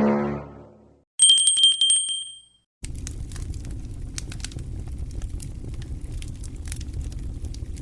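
A bicycle bell rings in a rapid trill for about a second and a half, just after a pitched sound fades out. A steady low rumbling noise with scattered crackles follows.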